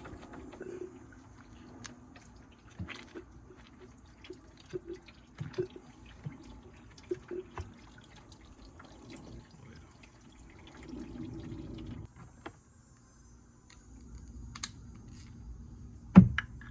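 Engine coolant dripping and trickling into a drain pan from the disconnected thermostat hoses, with scattered small clicks of tools on metal. A sharp knock near the end is the loudest sound.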